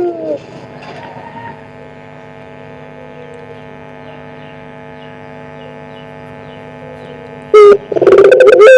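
Barbary dove of the pelung type cooing: a loud call with a falling note trails off at the start, then a steady hum, and near the end the bird starts another loud coo, a short note and then a long one that drops in pitch.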